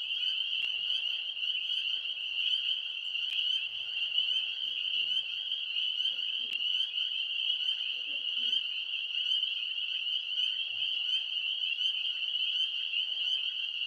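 Tree frogs calling in a dense chorus: a steady, unbroken high-pitched trill.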